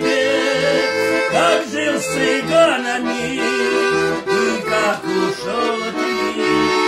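Accordion playing the instrumental ending of a song with no singing: a melody over held chords and an evenly pulsing bass.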